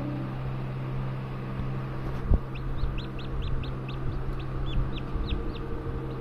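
Newborn chicks peeping: a run of short, high peeps, about four a second, starting a little after two seconds in, over a steady low hum. A single thump comes just before the peeps begin.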